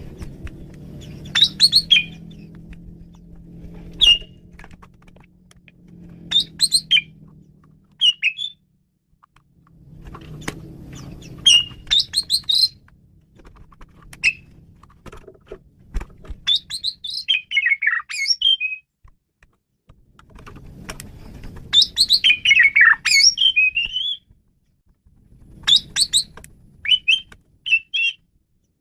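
Male Asian pied starling singing a varied song: short bursts of loud whistles, squeaky notes and rapid chattering, broken by pauses of a second or two.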